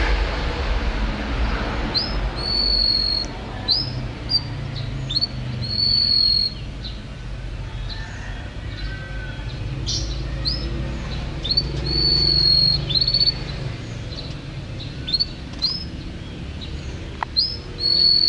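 Domestic canary singing: short quick rising chirps and long held whistled notes, repeated in phrases with short pauses, over a steady low rumble.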